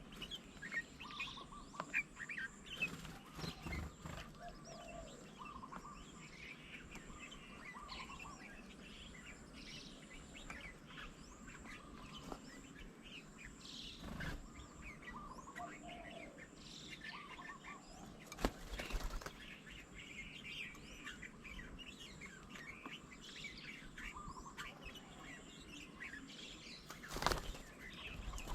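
Garden birds chirping and calling, with many short calls overlapping throughout. A few brief louder noises stand out, the loudest shortly before the end.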